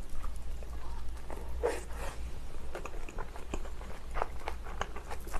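Close-miked chewing of a mouthful of soft dumpling, with irregular small wet mouth clicks and smacks. A few seconds in, another dumpling is pulled apart by hand, making a soft tearing sound.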